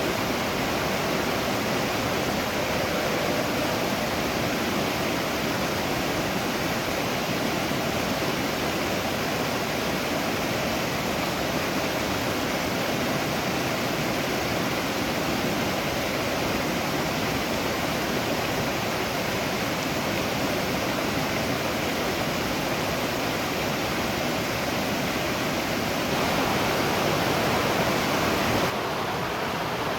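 Waterfall: a steady, full rush of falling water. Near the end it swells a little louder, then drops suddenly to a slightly duller rush.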